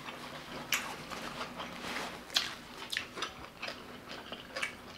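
A person chewing a mouthful of fried shrimp, with irregular sharp crunches and clicks of the mouth.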